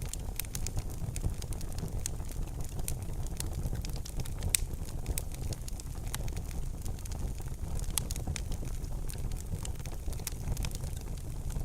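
Wood fire burning in a fireplace: a steady low rumble of flames with irregular sharp crackles and pops throughout, a louder pop about four and a half seconds in.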